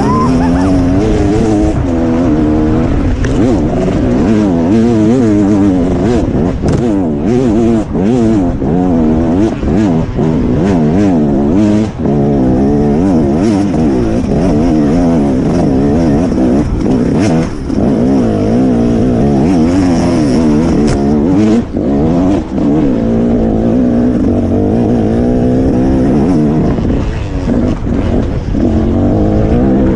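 Dirt bike engines revving hard under acceleration, their pitch repeatedly climbing and then dropping at each shift or throttle lift.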